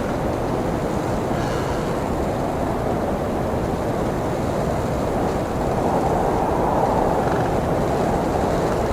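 Blizzard wind blowing in a steady, rumbling roar, with a stronger gust building about six seconds in and easing off near the end.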